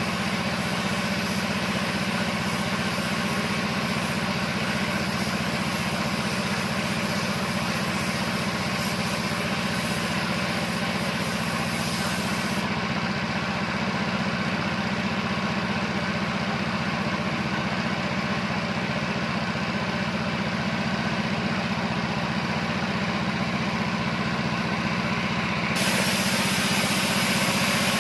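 Air compressor running steadily, a hum under a broad hiss. The high part of the hiss cuts out about a third of the way in and returns, louder, near the end.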